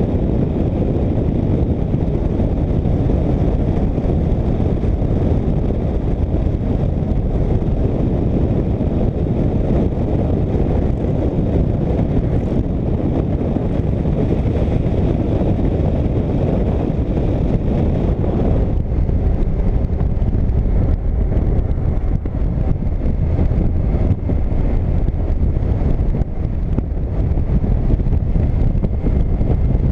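A motorcycle on the move, with steady wind rush over the microphone and engine and road rumble underneath. About two-thirds of the way through, the higher hiss drops away and the low rumble carries on.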